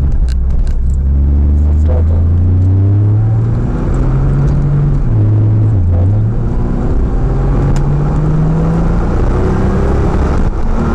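Nissan Juke-R 2.0's twin-turbo V6 engine heard from inside the car, pulling up through the revs, falling back at a gear change about four seconds in, dipping again around six seconds, then climbing once more and holding steady.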